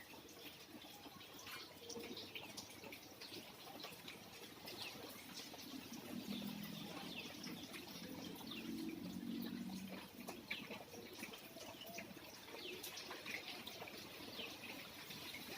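Light rain dripping in scattered ticks, with faint birds chirping. A low murmur rises in the middle and fades about ten seconds in.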